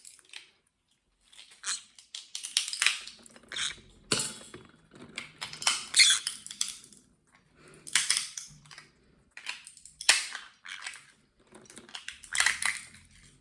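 Walnut shells cracking and crunching in short crackling bursts, about one every two seconds, with one sharper crack about four seconds in.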